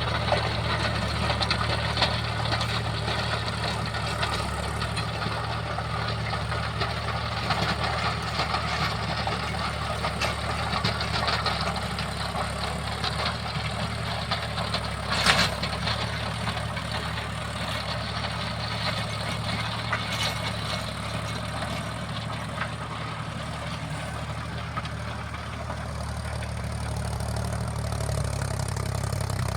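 Mahindra tractor's diesel engine running steadily, with one sharp knock about halfway through.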